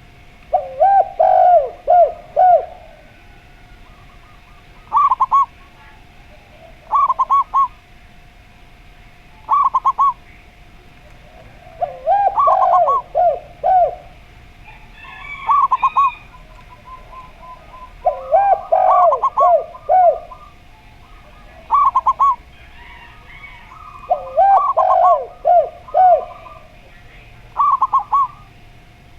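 A zebra dove and a spotted dove cooing in turn. Lower, multi-note coo phrases of four or five notes come about every six seconds, with higher, shorter coos of one to three notes between them. A faint steady hum runs beneath.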